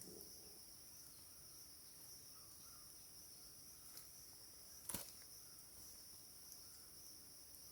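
Near silence with a faint, steady chorus of insects trilling high. A single sharp click about five seconds in.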